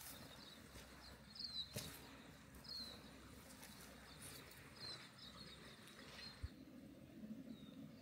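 Faint, short high-pitched chirps of small birds, repeating irregularly every second or so over a quiet rural background, with a few soft clicks and one low thump about six and a half seconds in.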